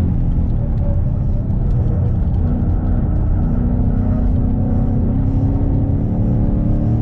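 Ford Mustang's engine running at track speed, heard from inside the cabin over a low road rumble, with a steady engine note through the second half.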